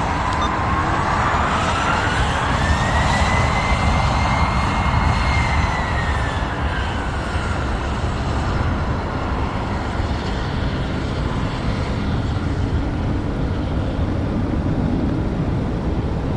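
Jet airliner engines running over a steady rumble, with a whine that climbs over the first few seconds, holds, then falls away about halfway through as the aircraft passes.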